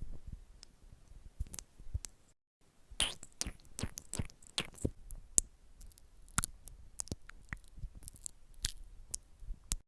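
Close-miked ASMR trigger sounds: a dense, irregular run of crisp clicks and crackles, with the sound cutting to dead silence for half a second about two and a half seconds in.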